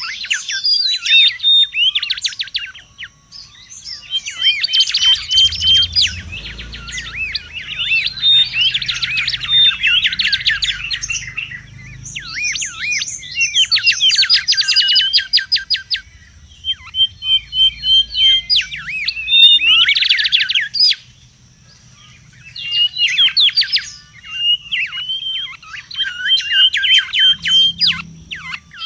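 Mangrove whistler singing busily: bursts of rapid whistled notes, trills and chatter, phrase after phrase with short pauses, as used for a lure call.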